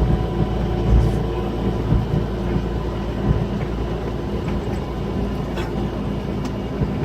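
Scania K340EB6 coach's diesel engine running at a steady speed, heard from inside the coach, with a deep rumble and a few short rattles about one, five and a half and six and a half seconds in.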